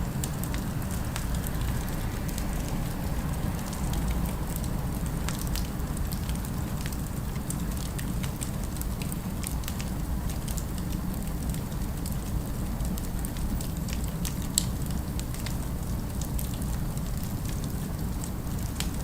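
Fire crackling with frequent small, irregular pops over a steady low rumble of city ambience. One sharper pop comes about fourteen and a half seconds in.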